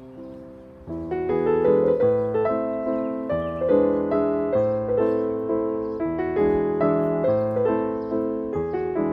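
Background piano music: a gentle melody of struck notes, picking up a little after a quiet second at the start.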